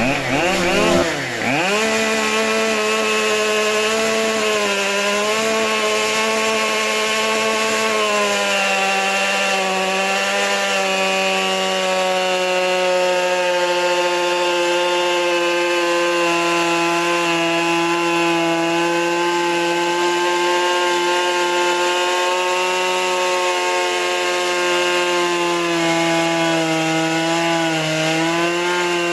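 Two-stroke chainsaw on a Logosol chainsaw mill, ripping lengthwise through a cedar log under steady load. About a second in, the engine's pitch drops sharply and recovers; after that it holds nearly steady, sagging slightly now and then as the chain bites.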